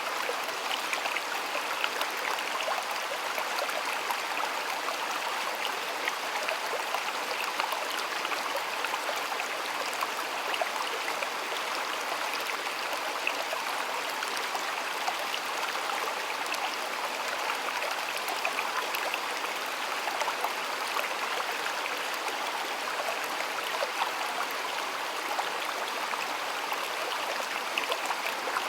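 A stream of water flowing and splashing steadily over rocks.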